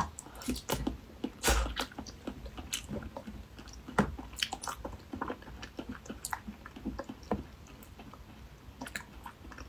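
A person chewing a soft jelly strip close to the microphone: irregular wet mouth clicks and squishes, with a few louder ones in the first four seconds.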